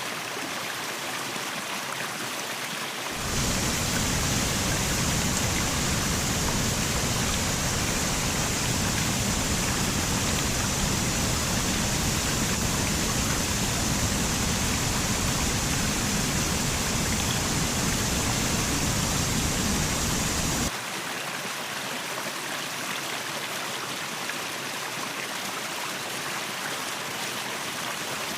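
Rushing water of a waterfall, a steady even noise. About three seconds in it suddenly becomes louder and fuller, with a deeper rumble, then drops back to the lighter rush just as suddenly near 21 seconds.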